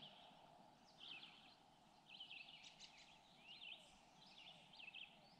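Faint birdsong: short, high chirping phrases repeated every second or so over a soft, steady background hiss.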